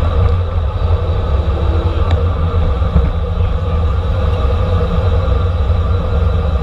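Steady, loud wind rumble and road noise on a bike-mounted camera's microphone while riding at racing speed.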